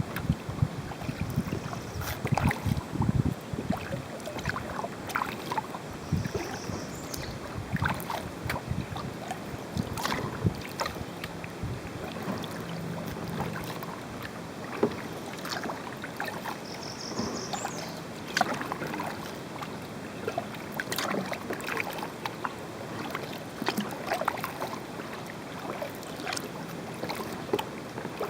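Kayak paddle strokes in the creek: water splashing, dripping and knocking irregularly, with low wind buffeting in the first few seconds. A short high call sounds three times, about every eleven seconds.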